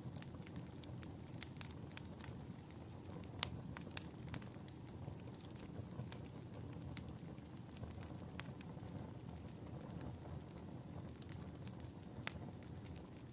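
Wood fire crackling in a fireplace: irregular sharp pops and snaps over a low steady rush of flames, with one louder pop about three seconds in.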